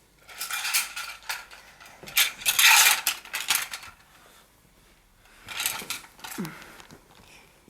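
Clicking and rattling of small hard objects being handled, in two spells with a short pause between them.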